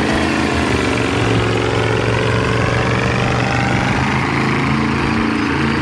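Diesel engine of a MAN KAT off-road recovery truck running under load in deep sand, a loud, steady engine note.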